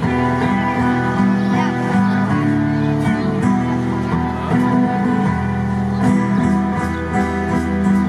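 Live rock band playing an instrumental passage: guitar chords over a steady bass line, with no singing.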